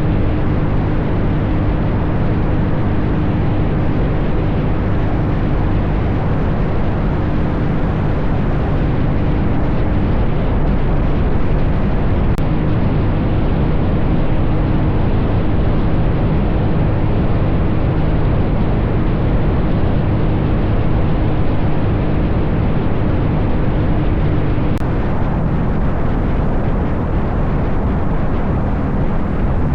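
Dirt bike engine running at a steady pace while riding, buried under heavy wind buffeting on the camera microphone.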